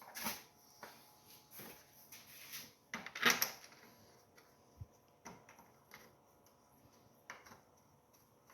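Scattered clicks and light knocks of small-engine parts being handled and fitted back on by hand, the loudest a brief clatter about three seconds in.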